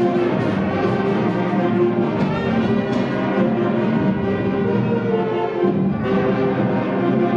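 Middle school concert band playing, with brass holding sustained chords.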